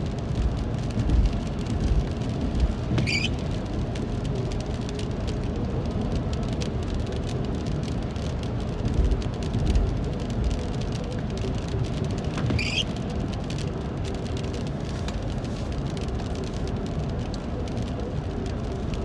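Rain pattering on a car over the low rumble of driving, with two short high squeaks, one about three seconds in and one about twelve seconds in.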